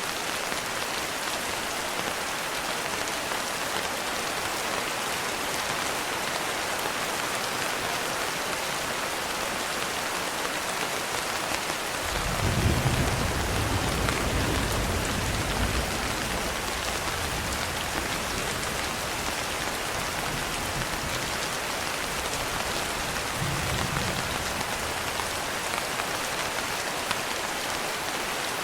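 Steady rain falling, an even hiss. A little before halfway a roll of thunder comes in suddenly and rumbles away over several seconds, with a fainter rumble of thunder later on.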